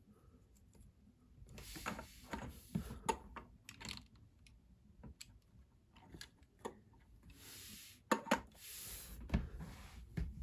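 Lego pieces and minifigures being handled on a table: scattered small plastic clicks and taps, with two short stretches of rustling a little before the end.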